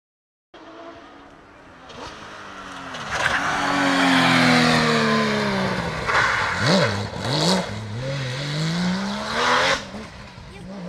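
Rally car engine coming up and passing at speed: its note falls as it brakes, two quick rev blips on downshifts, then it climbs again as the car accelerates away.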